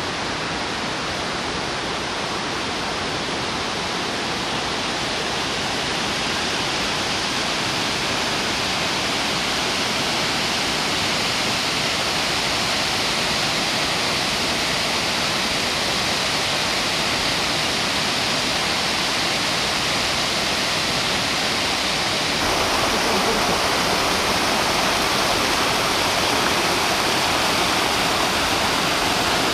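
Torc Waterfall's water rushing and crashing in a steady roar, slowly growing a little louder; about 22 seconds in it abruptly becomes fuller and deeper.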